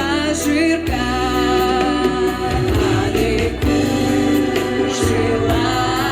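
Music with singing: a choir of voices sings over a steady accompaniment.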